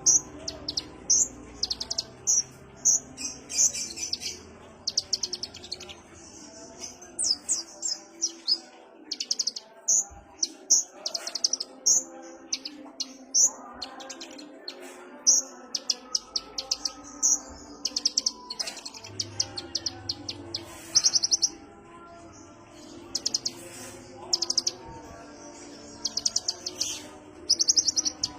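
Kolibri ninja sunbird singing: a steady stream of sharp, high-pitched chirps and short rapid trills, one burst after another.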